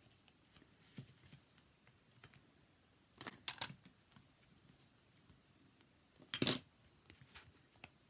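Cardstock being folded and handled on a desk: faint taps and clicks, with two louder rustling scrapes about three seconds in and again about six and a half seconds in.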